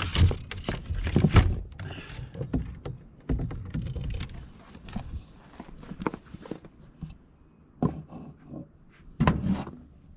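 A series of irregular clunks and knocks from the chicken coop being opened and handled: its door, latch and fittings banging. The loudest knocks come about a second in and again near the end.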